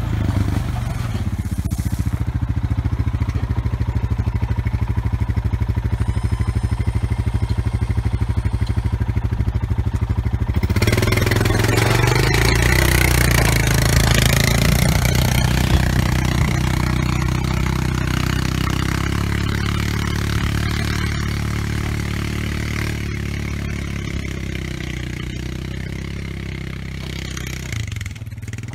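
Off-road vehicle engine running steadily while it pulls a steel land planer through dirt, with scraping and clatter. About ten seconds in the sound grows louder and rougher, as if under more load, then slowly eases off.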